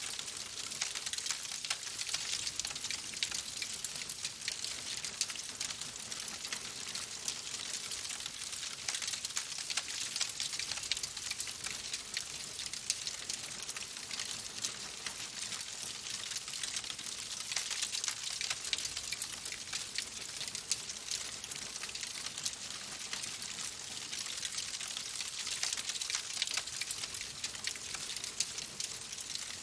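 Wood fire crackling in a fireplace: a steady hiss thick with quick, small pops and snaps.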